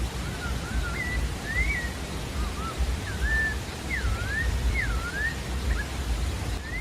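Pale-breasted thrush singing: a run of short, clear whistled notes, each sliding up or down, about two a second, over a steady hiss and low rumble.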